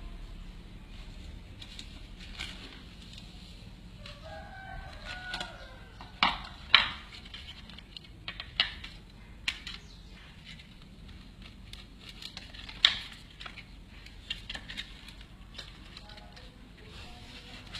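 A chicken calling about four seconds in, over low background noise, with a handful of sharp knocks or taps scattered through the rest, the loudest a little after six seconds and again near thirteen seconds.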